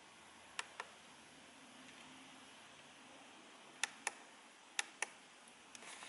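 Three pairs of sharp plastic clicks, each a button on a radio-control transmitter being pressed and released while stepping through its menus, with fainter clicks near the end over a faint hiss.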